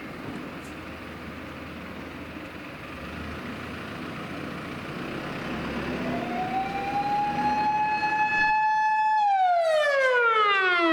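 Japanese fire engine's siren winding up to a held wail about halfway through, then falling in pitch near the end, over the truck's road and engine noise. It grows louder as it goes.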